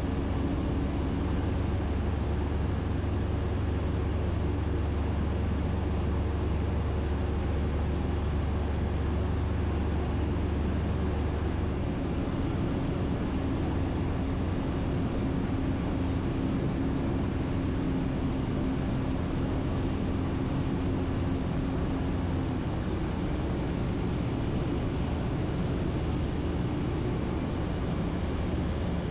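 Ikarus C42 light aircraft's engine running steadily, heard from the cockpit, its note changing about twelve seconds in.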